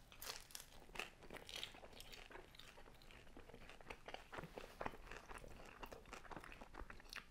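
A person biting and chewing a slice of super thin, crispy pizza: a quiet run of small, irregular crunches from the crisp crust.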